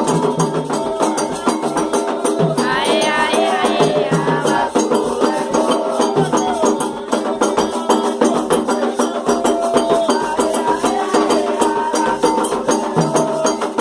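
Candomblé ritual music: fast, dense percussion with shakers and sharp wood-block-like strokes, with singing voices.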